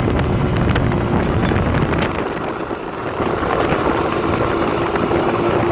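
A vehicle engine running while on the move, with wind rumbling on the microphone and a faint steady tone joining in about halfway through.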